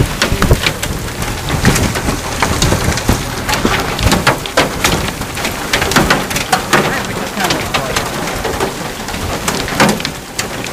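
Rain falling steadily, with many sharp hits of drops landing close by.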